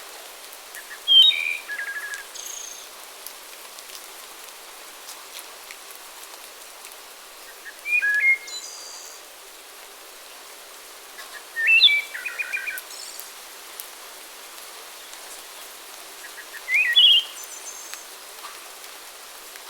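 A songbird singing short, varied phrases with quick trills, four times, roughly every five seconds, over a steady background hiss.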